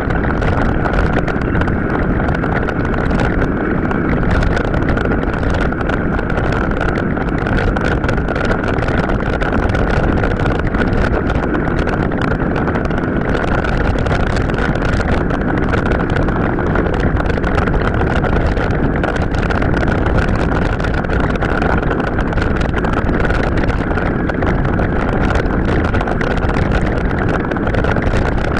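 Sped-up recording of an off-road mountain bike ride: continuous wind noise on the microphone and tyre and frame rumble over rough ground, with a steady high whine running through it.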